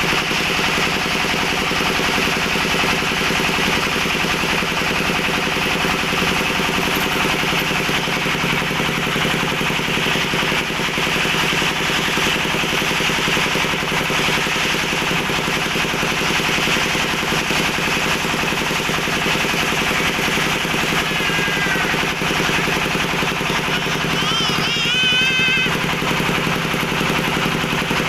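A steady, motor-like drone with a fast rattling pulse. A few wavering, whistle-like tones come in about three-quarters of the way through.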